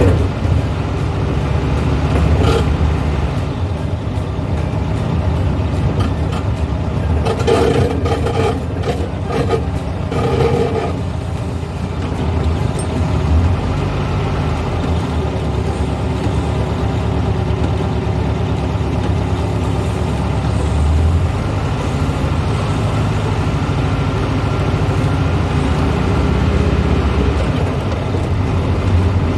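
A 1970s Volkswagen's engine running steadily while driving, with road noise. A cluster of short rattles and knocks comes between about seven and eleven seconds in.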